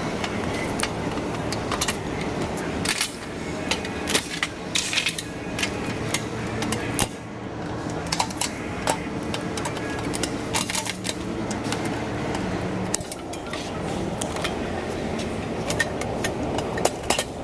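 Plastic trim clips and bumper seals being pinched and pulled free by hand, giving scattered clicks and rattles over a steady low hum.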